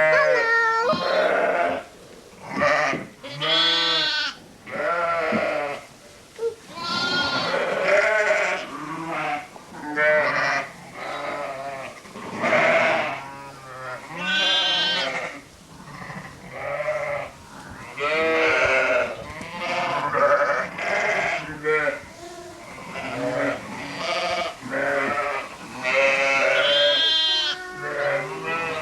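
A flock of sheep and lambs bleating, one call after another every second or so, some voices low and some higher and wavering.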